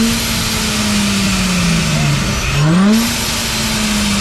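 A car engine revved hard twice: held at high revs and slowly dropping, then blipped up again about two and a half seconds in and held before easing down.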